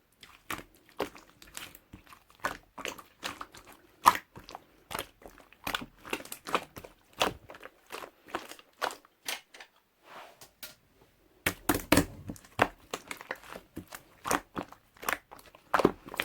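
Two-layer slime being pressed and mixed by hand, making irregular sharp pops and crackling clicks, two or three a second, with a louder, denser run of crunching about twelve seconds in.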